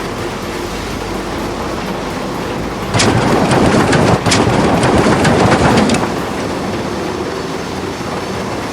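Heavy machine working, a steady mechanical noise with a louder stretch of clanking and rattling clicks from about three to six seconds in.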